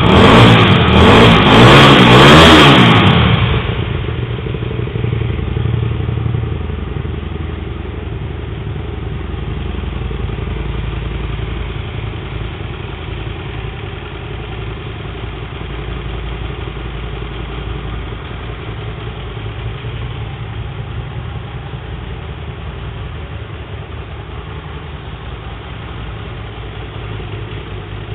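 Hyosung GT125R's 125 cc V-twin breathing through an open, straight-through stainless slip-on exhaust: revved up and let fall back a few times in the first three seconds or so, then settling to a steady idle. The note echoes off the walls of the enclosed unit.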